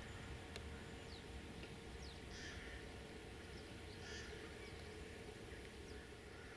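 Faint birdsong: scattered short, high falling chirps and two harsher calls about two and a half and four seconds in, over a steady low distant rumble.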